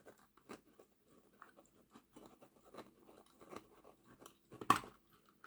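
Small plastic clicks and creaks as the clip-fastened body and chassis of a Heljan Class 23 model locomotive are worked apart, with one louder click near the end.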